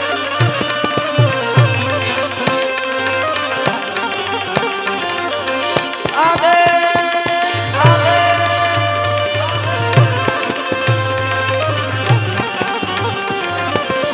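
Instrumental interlude of a Gujarati folk wedding song: tabla keeps the rhythm, its deep bass drum strokes bending in pitch, while the Indian banjo (bulbul tarang) plays the melody in quick plucked notes with a few sliding notes in the middle.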